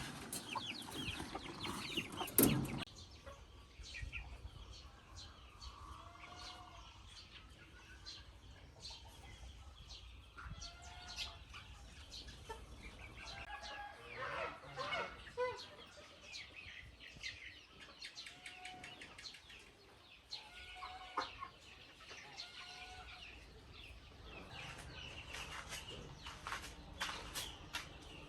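Chickens clucking, short calls every second or two among scattered sharp clicks, with a louder burst of sound about two seconds in.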